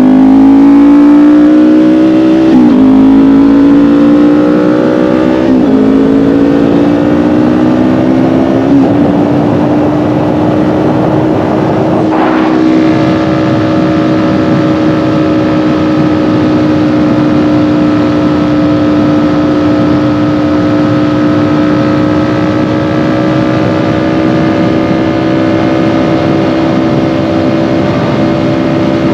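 Kawasaki Ninja 400's parallel-twin engine accelerating through upshifts, its pitch rising and dropping back at each shift about every three seconds, three times. About twelve seconds in it settles into a steady cruising pitch.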